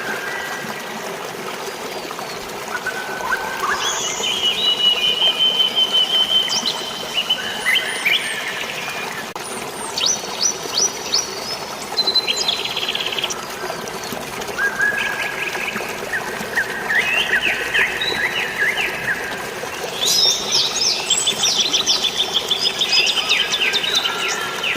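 Several songbirds chirping and trilling in overlapping short phrases, busiest near the end, over a steady hiss of flowing water.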